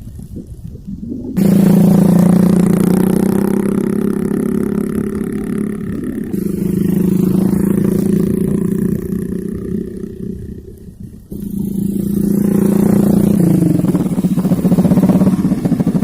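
Small single-cylinder four-stroke mini bike engine running under way at a steady pitch, in separate stretches that start and stop abruptly, with the engine pulses easy to hear near the end.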